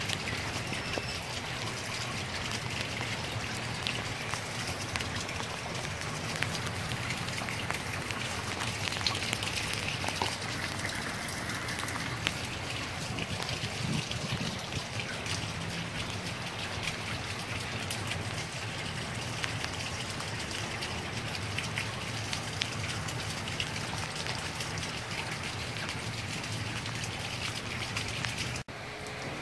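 Steady rain falling on pavement, puddles and a lawn: a dense, even patter of drops.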